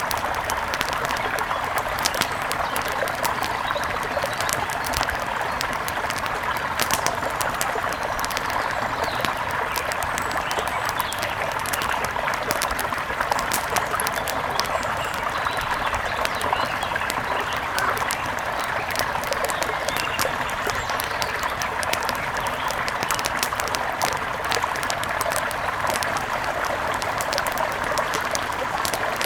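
Wood fire crackling with frequent sharp pops over the steady rush of a mountain river.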